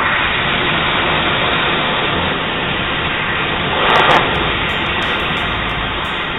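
Gas torch burning with a steady rushing hiss while heating steel for a bend, swelling briefly louder about four seconds in.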